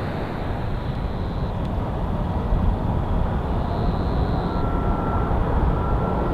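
Jet airliner landing: a steady deep engine rumble, with thin high whines that come and go.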